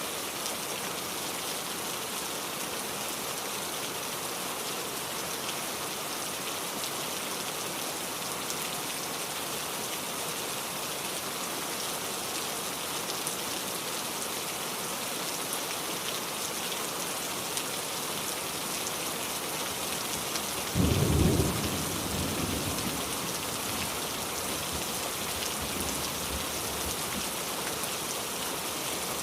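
Steady heavy rain, with a clap of thunder about two-thirds of the way through that rumbles off over a few seconds.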